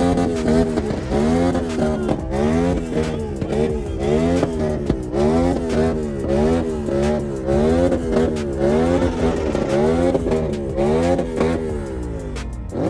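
A car engine being revved over and over in quick throttle blips, about three revs every two seconds, its pitch climbing and dropping with each one. It winds down near the end.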